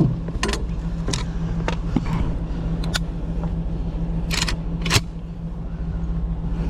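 A vehicle engine idling steadily, with several sharp clicks and knocks over it, two close together a little past halfway.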